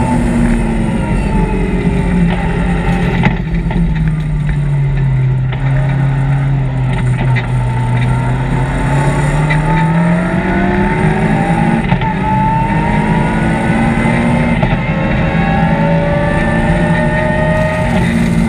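BMW M3 rally car's engine heard from inside the cabin at stage pace. The engine note drops over the first few seconds as the car slows into a bend, stays low for a few seconds, then rises again from about eight seconds in as it accelerates out. Road noise runs underneath throughout.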